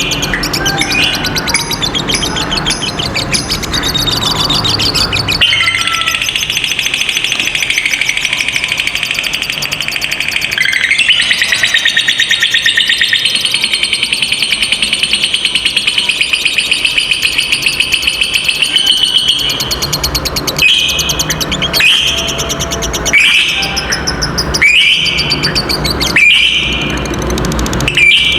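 Lovebird singing a long, rapid chattering trill ('ngekek panjang') that lasts about fourteen seconds, from about five seconds in. Before it the bird chatters, and near the end it gives a string of short, sharp shrill calls.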